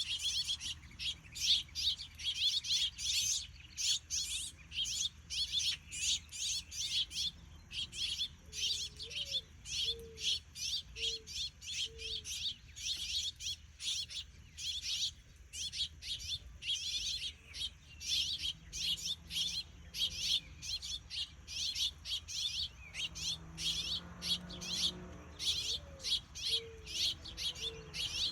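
House finches, a mother and her young, chirping in a continuous rapid series of short high chirps, several a second. A faint low cooing phrase of four notes, the first sliding up, sounds twice in the background.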